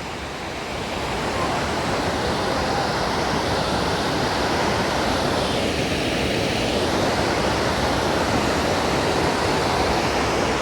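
Choke Creek Falls: a waterfall's steady rush of falling water, getting a little louder over the first second or two and then holding even.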